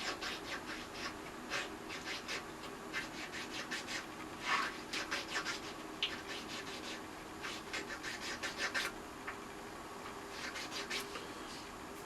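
Triangle file scraping in short, irregular strokes along the edges of thin plywood pieces, putting a small bevel on them.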